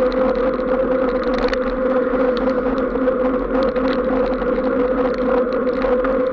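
A vehicle travelling on a wet road: a steady buzzing hum at one unchanging pitch, with a fine crackle of small ticks over it.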